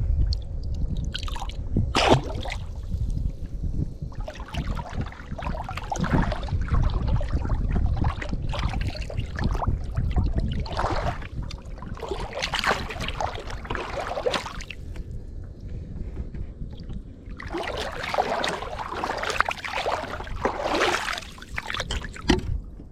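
Water splashing and sloshing beside a small boat in irregular bursts, over a steady low rumble.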